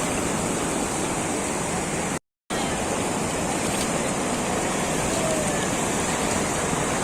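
Steady rush of a waterfall, a loud even roar of falling water that drops out completely for a split second about two seconds in.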